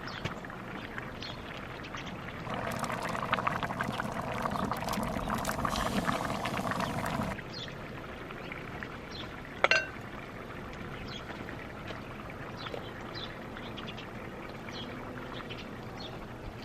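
Water poured from a container into a cast-iron Dutch oven of simmering soup for about five seconds, stopping abruptly, followed a couple of seconds later by a single sharp clink.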